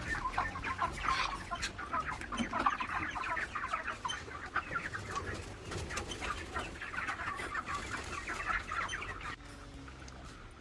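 A flock of 35-day-old broiler chickens calling all at once, with many short, overlapping peeps and clucks. The calls drop away abruptly about nine seconds in.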